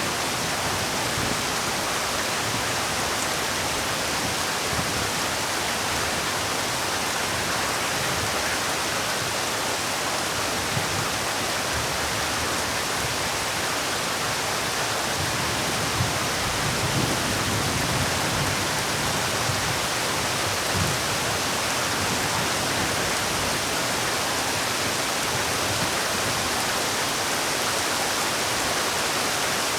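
Heavy rain falling in a steady, even hiss, with a few slightly heavier low patters partway through.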